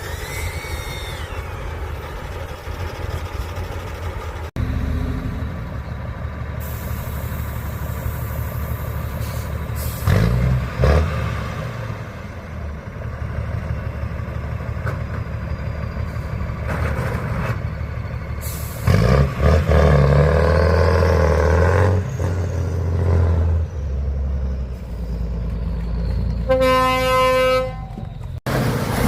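Heavy off-road trial truck engines running and revving in surges as the trucks drive the course. Near the end a horn sounds once for about a second and a half.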